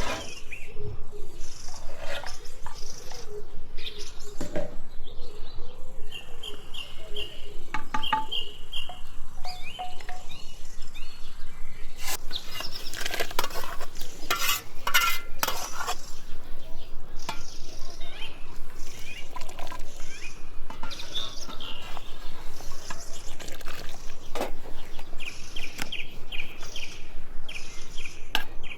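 Small birds chirping in short bursts, over a steady even pulse of about two to three beats a second.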